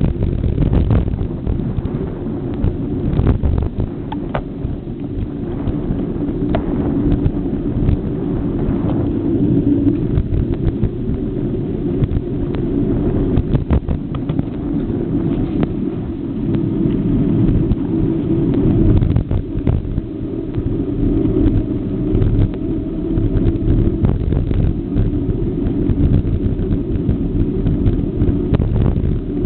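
Steady low rumble of wind buffeting the microphone and road noise while riding, with scattered small rattles and clicks throughout.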